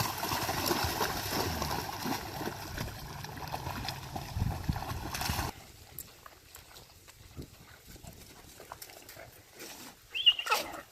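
A puppy lets out one short, loud yelp of pain near the end, falling sharply in pitch. It follows about five seconds of steady, rushing noise that cuts off abruptly.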